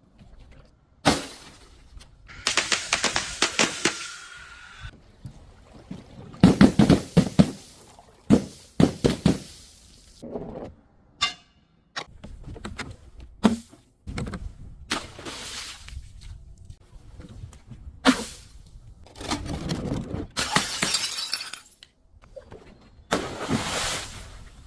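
Objects being crushed and broken, with glass shattering and crunching: a series of about ten separate breaks and crackling crunches, some sharp and brief, some drawn out for a second or two.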